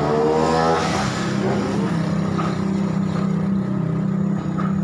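A motor engine running steadily, with a brief rise in pitch near the start like a vehicle revving.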